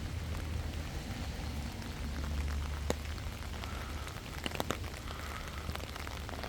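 Steady outdoor noise with a low rumble and scattered light ticks.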